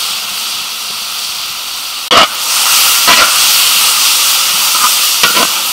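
Beef and chili paste sizzling in a hot wok, a steady hiss, with a metal spatula scraping against the wok three times, loudest about two seconds in.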